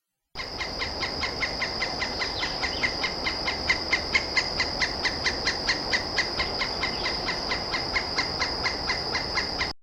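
Pileated woodpecker making its foraging sounds: a rapid, even series of short notes, about five a second, over a steady high-pitched hum.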